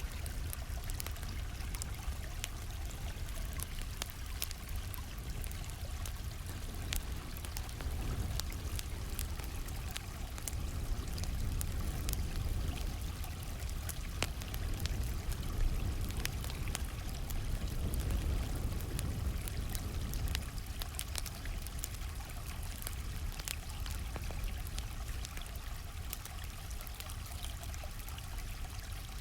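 A stream flowing steadily, with sharp crackles of a burning campfire scattered over it.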